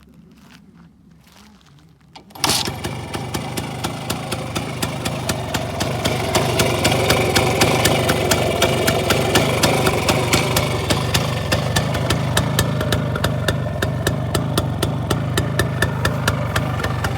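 A 1975 Voskhod-2 motorcycle's single-cylinder two-stroke engine, fitted with a K68 carburettor and a three-ring IZh Jupiter piston, fires about two seconds in. It then runs steadily with an even, fast firing beat, a little louder after a few seconds.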